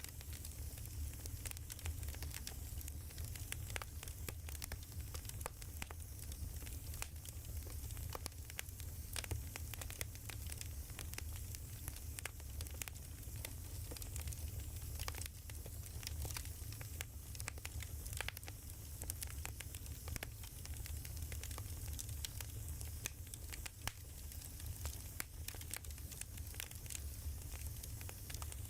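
Wood fire crackling steadily, with many small irregular pops and snaps over a soft hiss and a low rumble.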